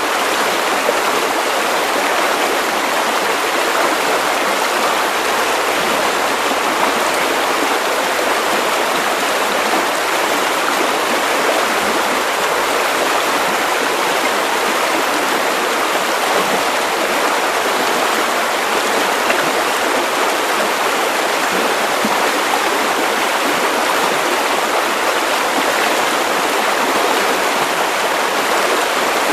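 Sleep-aid white noise: an even, unchanging rushing hiss with little bass.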